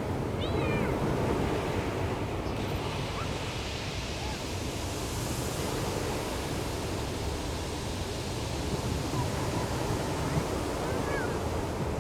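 Ocean surf washing onto the shore in a continuous wash that swells gently, with faint distant voices of people on the beach.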